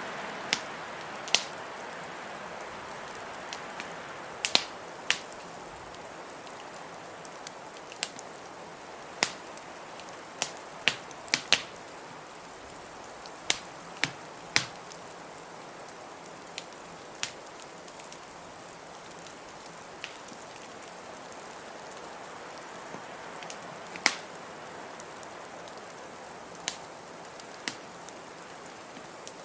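Wood fire crackling, with sharp irregular pops about once a second, over a steady hiss of blizzard wind that eases a little after the first few seconds.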